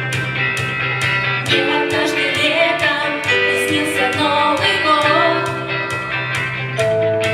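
A song with guitar accompaniment and a steady strummed beat; a sung melody comes in about a second and a half in.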